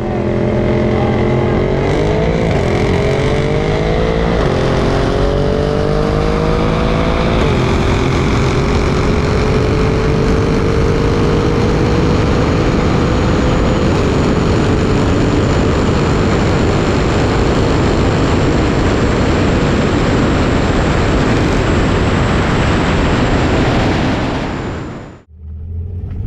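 Twin-turbo V8 car engine at full throttle in a roll race. It rises in pitch and drops at each upshift, about four times in the first half. After that it pulls at a steadier pitch, and it cuts off near the end.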